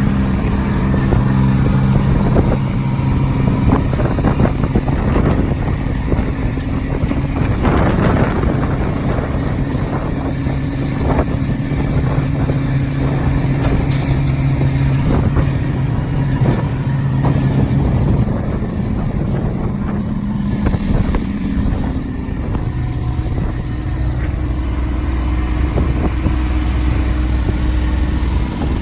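Bucket truck's engine running steadily while the chipper dump box is raised hydraulically. Its note shifts lower late on, with a few short knocks along the way.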